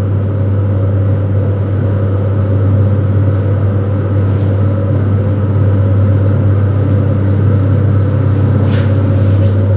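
Elevator hoist machine running in its machine room: a loud, steady motor hum over a heavy low drone, strong enough to make the floor vibrate. A short hiss about nine seconds in.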